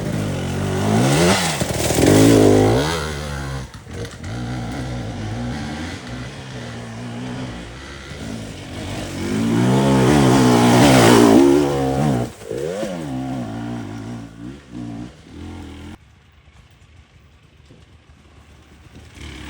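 Dirt bike engine revving up and down as it rides, with two loud surges of revs, one a second or two in and one about ten seconds in; the engine sound drops away much quieter about sixteen seconds in.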